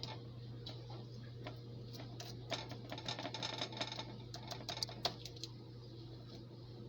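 Faint, irregular light tapping and scraping as butter is patted and rubbed onto the hot crust of a freshly baked loaf, thinning out near the end, over a steady low hum.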